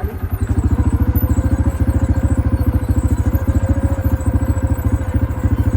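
Quad bike engine running steadily at low revs, a fast, even putter of firing pulses.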